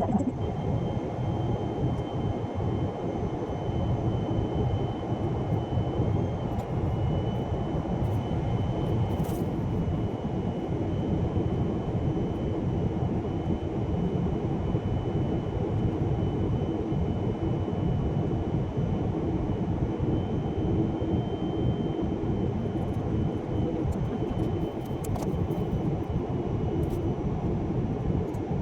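Steady airliner cabin noise: a constant engine and airflow roar with a thin high whine over it, unchanging throughout.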